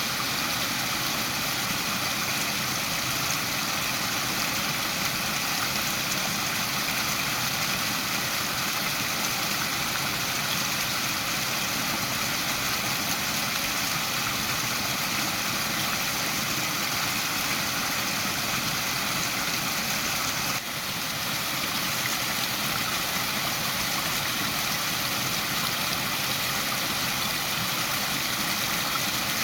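Waterfall: a steady, unbroken rush of falling water, with a brief dip in level about two-thirds of the way through.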